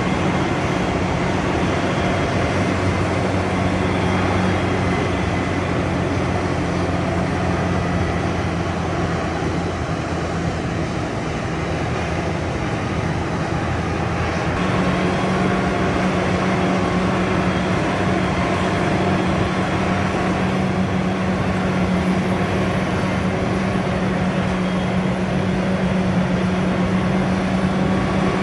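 Diesel farm machinery engine running steadily during the sweet corn harvest, a constant low hum over mechanical noise, its note shifting slightly about halfway through.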